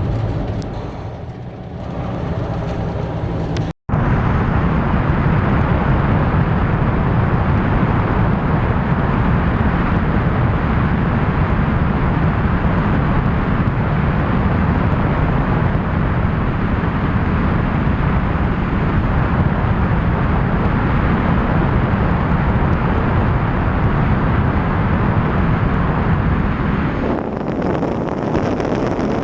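Semi truck driving at highway speed: steady road and engine noise. It breaks off for an instant about four seconds in, then runs evenly, shifting slightly near the end.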